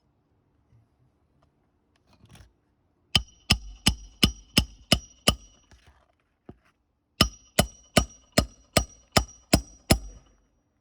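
Hammer striking a steel roof snake to drive roofing nails under a shingle: two runs of ringing metal-on-metal blows, about seven then about eight, at roughly three a second.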